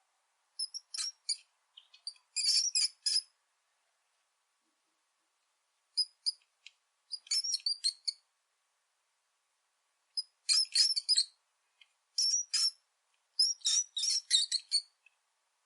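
Rat squeaking: groups of rapid, high-pitched squeaks, several to a group, with short silent gaps between the groups.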